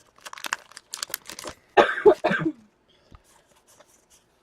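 A person coughing once, loud and short, about two seconds in, after a second or so of soft rustling from cards and packs being handled.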